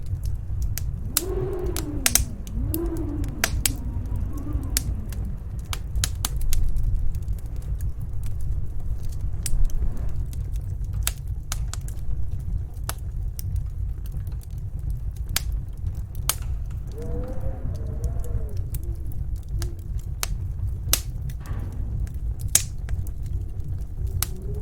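Fireplace crackling with frequent sharp pops over a steady low rumble of storm wind. The wind howls in wavering, rising and falling tones twice, in the first few seconds and again past the middle.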